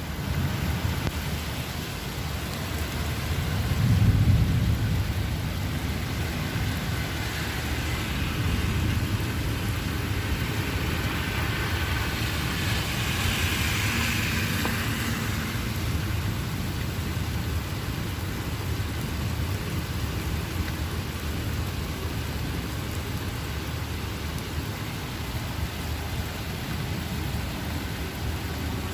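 Heavy rain pouring down steadily, with a low rumble that swells about four seconds in and a brighter hiss that rises and fades near the middle.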